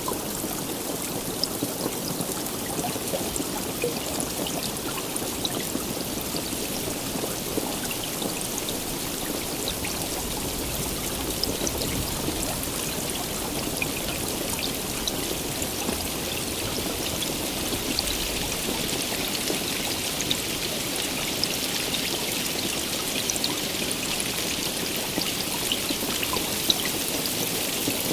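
Steady heavy rainfall: a dense, even hiss full of scattered small drop ticks, growing slightly louder toward the end.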